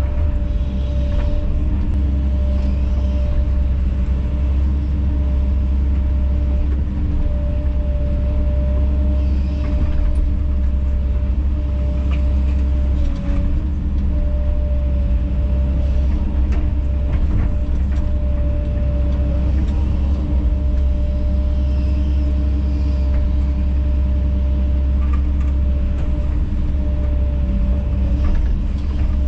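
Kobelco SK210 excavator's diesel engine running steadily under load, heard from the cab, with a few faint knocks.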